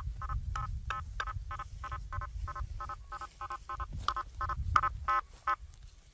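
Quest V80 metal detector with a 9-inch coil giving a fast run of short, evenly spaced beeps, about three a second, during a nailboard test; the beeps stop near the end. A low rumble sits underneath.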